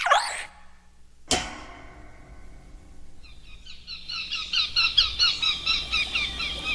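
A sharp knock just over a second in, then rapid high-pitched chirping, about five chirps a second, starting about three seconds in and growing louder.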